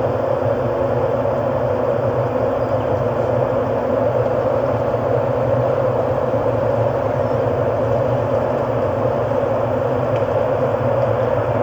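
Generated ambient drone: a steady, unchanging wash of rumbling noise with no beat or melody.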